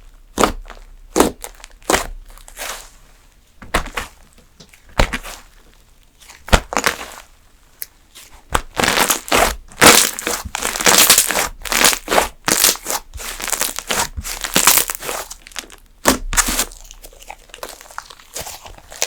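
Slime being squeezed, poked and stretched by hand, giving sharp pops and crinkly crackling. The pops are spaced out at first and turn into a dense run of crackling about halfway through, then thin out again near the end.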